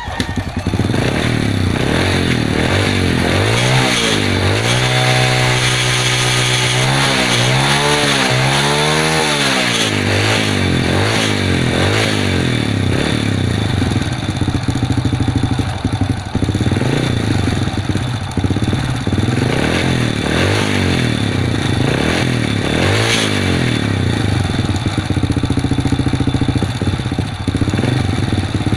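Honda Supra underbone motorcycle's single-cylinder four-stroke engine catching and running, blipped up and down several times a few seconds in, then running unevenly; the carburettor still needs adjusting.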